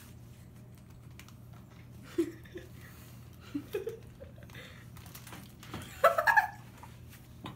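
A dog licking at a bag held up to it: scattered soft clicks and crinkles, with a short burst of giggling about six seconds in.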